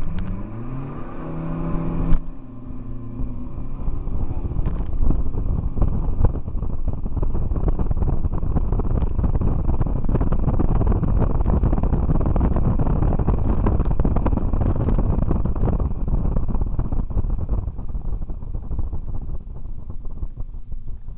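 Car engine at full throttle from a standing start, its pitch rising over the first two seconds, with a sharp knock about two seconds in. Then loud engine, road and wind noise at speed, easing off near the end.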